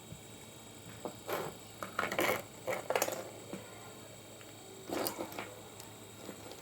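Irregular clicks, knocks and short scrapes of small hard objects being handled, in a cluster between about one and three seconds in and again around five seconds, over a faint steady hum.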